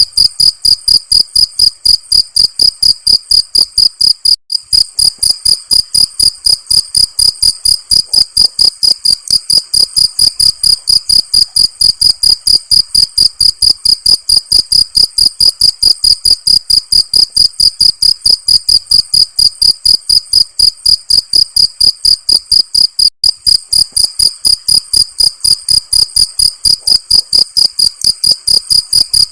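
Cricket chirping in a fast, steady, high-pitched rhythm of about five chirps a second, dropping out briefly twice.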